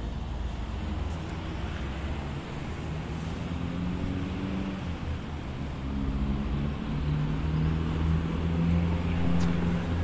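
A car engine running while under way, steady at first and getting louder over the last few seconds.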